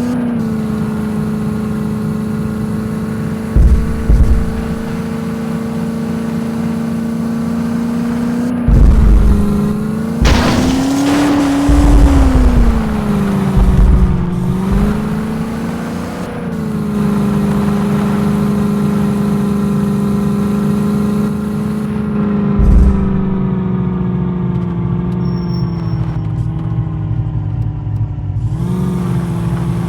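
Jeep driving off-road, its engine running with a steady drone that rises in pitch for a couple of seconds about ten seconds in, then settles. Occasional low thumps are heard along the way.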